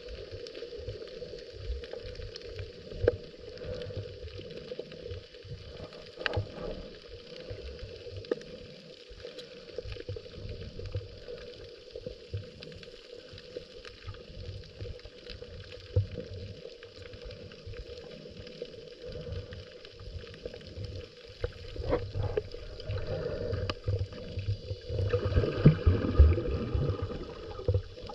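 Underwater sound picked up by a GoPro in its housing during a scuba dive: an irregular low, muffled rumble of moving water with a steady hum and a few sharp clicks, growing louder over the last several seconds.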